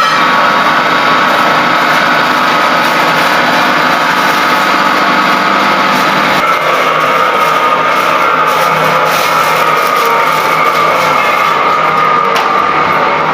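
A small motor running steadily with a high-pitched whine and no break.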